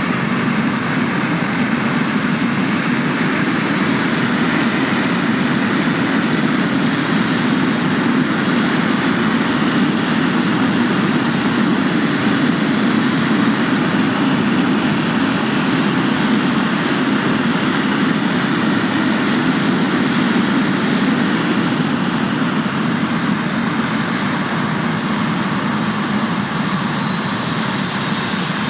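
Jet Provost's Viper turbojet running on the ground during an engine run: a steady loud jet rush with a high whine on top. Near the end the whine slides down in pitch and the noise eases a little.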